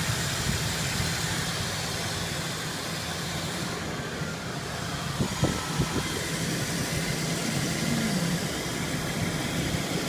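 Truck engine idling steadily, with a few light knocks about five seconds in.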